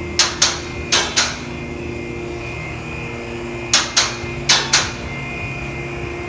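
Sharp knocks in quick pairs, four pairs in all, two near the start and two a little after halfway, like hammer taps, over a steady hum.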